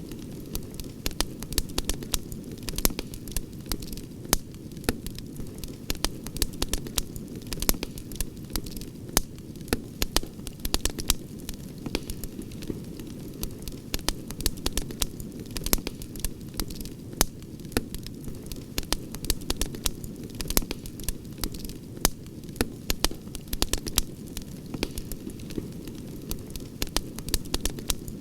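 Campfire burning: wood crackling and popping in many sharp, irregular pops over a steady low rush of the flames.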